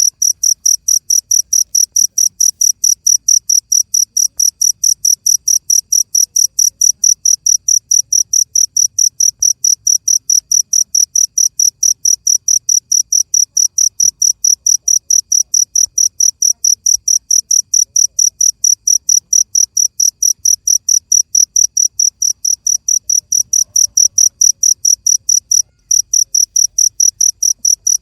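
A cricket chirping steadily in a high, even rhythm, about three chirps a second, with a brief break near the end.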